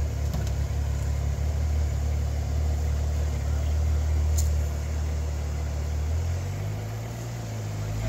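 Jeep Wrangler engine running at low revs, a steady low rumble as it crawls over rock ledges. The pitch drops and eases about six seconds in, then picks up again as the Jeep climbs onto the next rock near the end.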